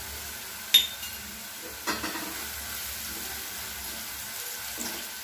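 Sliced onions, curry leaves and cumin frying in oil in a kadai, a steady sizzle, as they are stirred with a spatula. The spatula clinks sharply against the pan about a second in and knocks again near two seconds.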